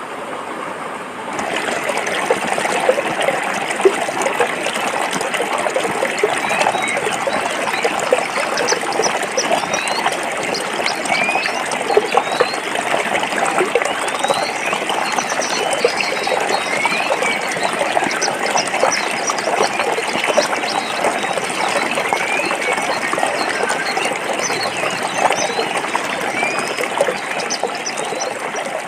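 Forest stream water flowing over rocks: a steady rushing and trickling with constant small gurgles and bubbling.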